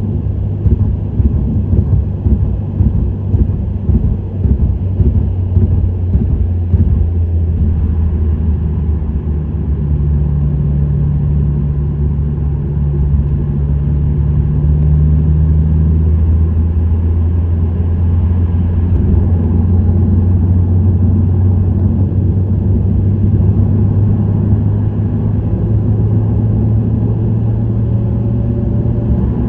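Subaru WRX STI (VAB) with an STI Performance muffler driving at a steady pace: the turbocharged EJ20 flat-four's low exhaust drone holds steady over tyre and road noise, its pitch shifting only slightly.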